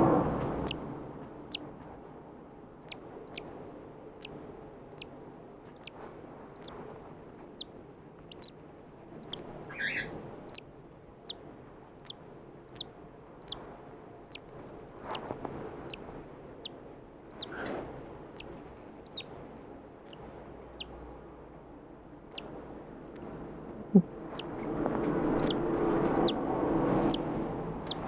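Baby cockatiel chick peeping: a steady run of short, thin, high peeps, one or two a second. A sharp knock comes late on, followed by rustling.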